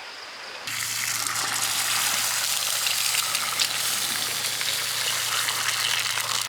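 Food frying in a pan, a steady sizzle with a low hum beneath it, starting suddenly just under a second in.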